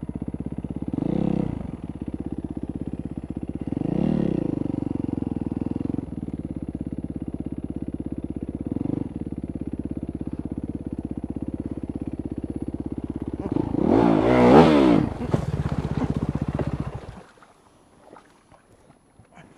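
Supermoto motorcycle engine running at low revs with a few short throttle blips, then a sudden loud rev as the throttle is held wide open by accident (a 'whiskey throttle'). The engine cuts out a few seconds before the end as the bike goes into the river, leaving only faint clatter.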